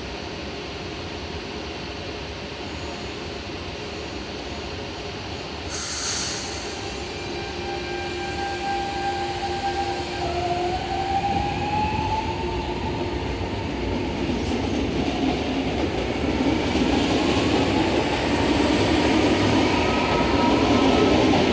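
Electric passenger train at a station: a short sharp hiss of air about six seconds in, then electric whine tones, one of them rising in pitch, over a rumble that grows steadily louder as the train moves.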